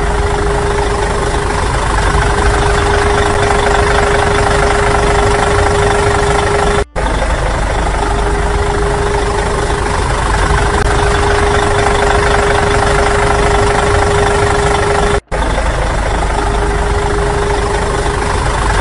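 A vehicle engine sound effect running steadily, with a constant hum over it. It cuts out abruptly for an instant twice, about 7 and 15 seconds in.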